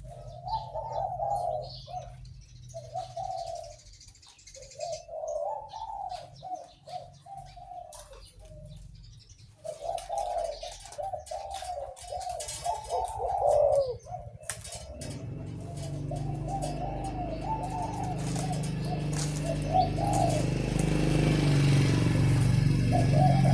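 A caged zebra dove cooing, phrase after phrase of its rolling, burbling song. About fifteen seconds in, a low rumble comes in and grows louder under the cooing.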